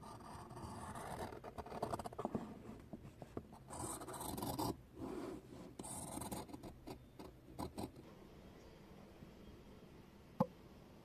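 Irregular scraping and rustling of something being handled, for about eight seconds, then quieter, with one sharp click near the end.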